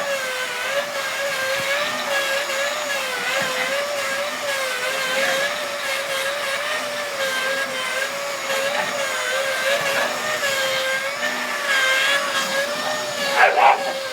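Vacuum cleaner motor running with a steady whine that wavers slightly in pitch as the airflow changes. A brief louder sound cuts in near the end.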